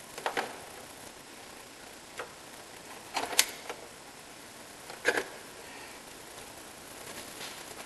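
A few separate sharp clicks and knocks of metal tools and parts being handled during engine work, the loudest a quick cluster of knocks about three seconds in, over a steady low hiss.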